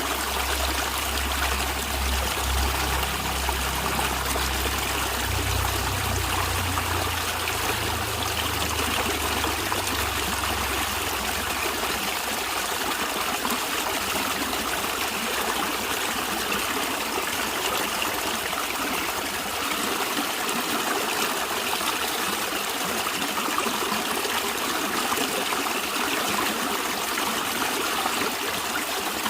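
A stream of water running and trickling steadily, with a low rumble underneath that fades out about twelve seconds in.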